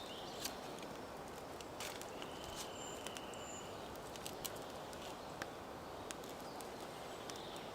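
Small campfire of birch bark and thin dry twigs crackling faintly, with scattered sharp pops, over quiet woodland ambience with a few brief high bird chirps.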